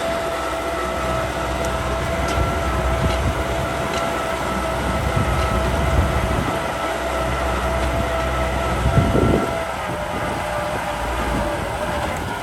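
Kubota M6040 SU tractor's diesel engine running steadily under a constant high whine, with a brief louder rush about nine seconds in.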